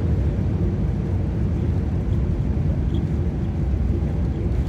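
Steady low rumble of an airliner's engines and airflow heard from inside the passenger cabin during landing.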